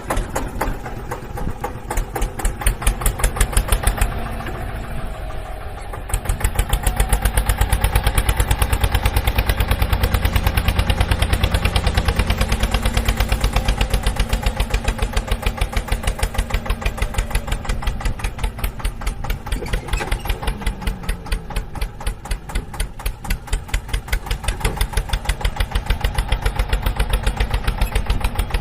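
An engine running with a steady, rapid chugging beat. It drops back for a couple of seconds, then runs louder from about six seconds in.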